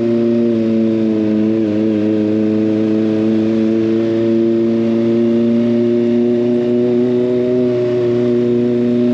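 Kawasaki ZX25R's 250 cc inline-four engine, through an SC Project aftermarket exhaust, running at steady high revs while riding, holding one even engine note that sags only a little in pitch.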